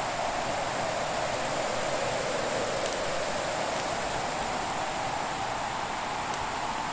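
Wood fire burning with a steady hiss, a few faint crackles, and a whooshing band that slowly rises in pitch.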